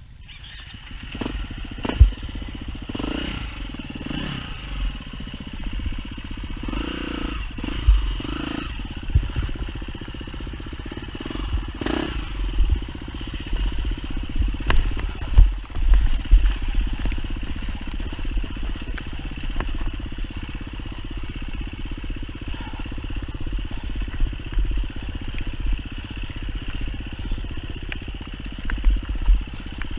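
Enduro dirt bike engine running steadily while riding a trail, with scattered sharp knocks and rattles from the bike over rough ground.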